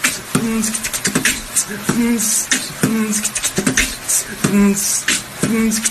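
Beatbox-style vocal rhythm: sharp clicks, short hisses and short low hums, repeating in a steady beat of about two a second.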